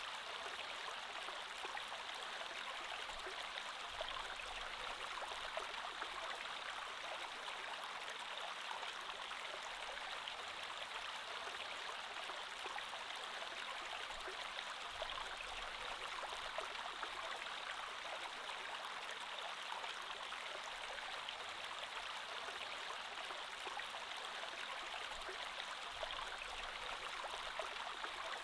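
Creek water flowing steadily over stones, a soft continuous babble and trickle.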